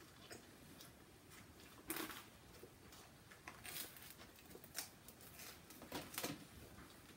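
Faint eating sounds: a few soft, scattered crunches and mouth clicks over near silence.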